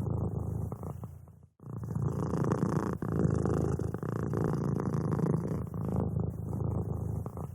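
Domestic cat purring close up, a steady low rumble that fades and breaks off briefly about a second and a half in, then starts again.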